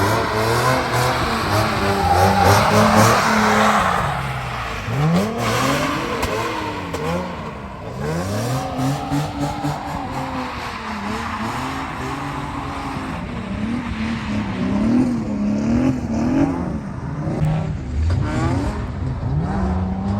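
Drift car's engine revving hard, its pitch climbing and dropping over and over as the throttle is worked, with quick blips of the throttle in the second half. A loud hiss runs along with it for the first few seconds.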